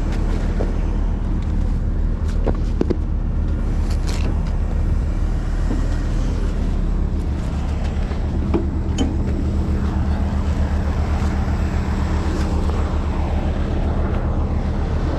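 Heavy rotator tow truck's diesel engine running steadily at idle, with a few light clanks of rigging gear.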